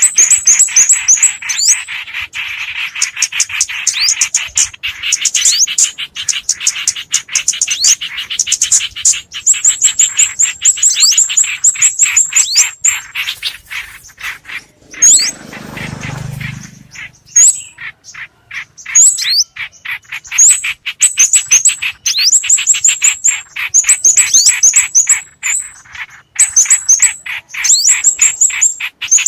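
Small songbirds calling: repeated bursts of rapid, high twittering notes, many with a quick downward sweep, over a busier chatter that thins out after the first half. Several species are mixed in a bird-lure recording. A brief low rumble comes about halfway through.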